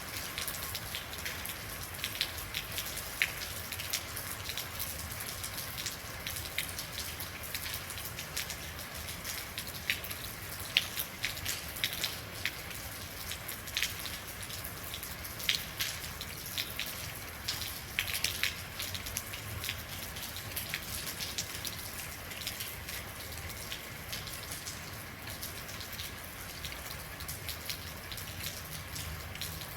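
Steady rain falling, with many individual drops landing close by as irregular sharp ticks over an even hiss.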